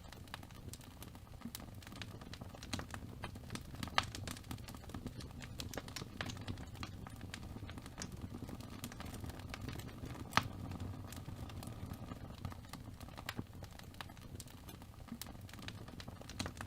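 Wood fire burning in a fireplace: a steady low rumble of flames with scattered crackles and pops, two louder pops about four and ten seconds in.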